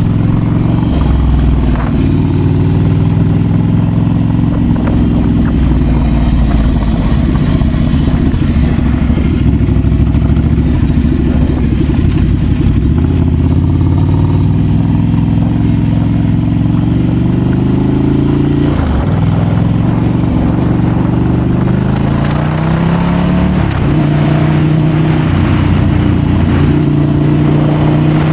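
Ducati Scrambler's air-cooled L-twin engine running under way, its pitch climbing and falling with the throttle. The pitch drops abruptly about two seconds in, about two-thirds of the way through and again a few seconds later, as at gear changes.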